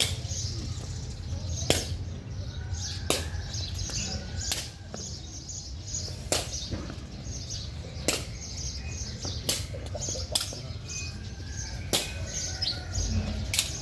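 Sharp strikes repeated about every second and a half, as of an object being hit over and over in play, over a steady low rumble. Birds chirp now and then.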